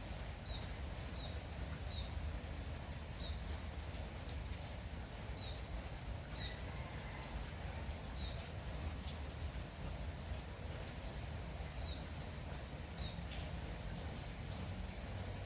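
Steady light rain with a small bird chirping short high notes a dozen or so times, some flicking upward.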